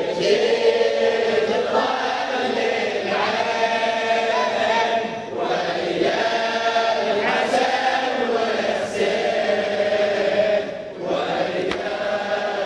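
A group of voices chants the refrain of a Shia mourning elegy (latmiya) in unison, with long held, drawn-out notes. There are short breaks between phrases every few seconds.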